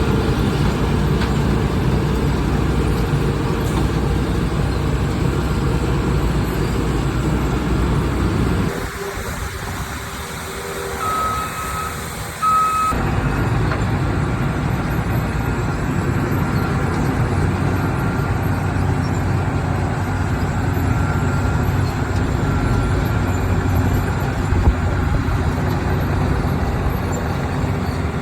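Heavy road-works machinery at an asphalt milling job, running with a loud, steady low noise. For about four seconds near the middle it gives way abruptly to a quieter engine hum with two short beeps about a second and a half apart, like a reversing alarm.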